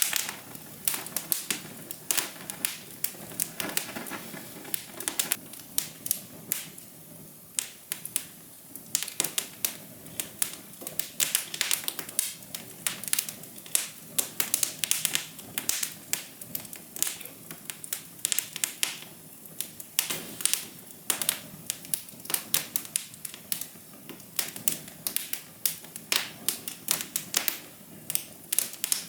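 Wood fire crackling: dense, irregular snaps and pops over a soft hiss.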